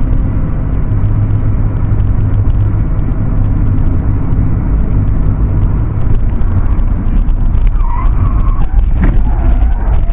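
Loud, steady low rumble of a motor vehicle, with a few brief higher sounds near the end.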